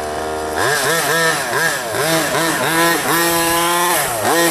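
Small two-stroke gas engine of a large-scale RC car idling, then revved up and down repeatedly in quick blips from about half a second in.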